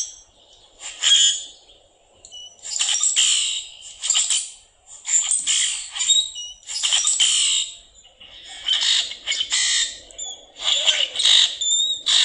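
Common grackle calling: about ten harsh, buzzy, clicking squawks in irregular bursts with no real rhythm, with a few short high whistled notes mixed in near the end.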